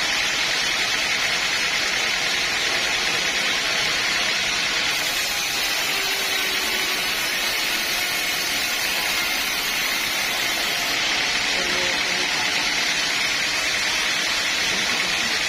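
Sawmill machinery running with a steady, even noise that does not rise or break.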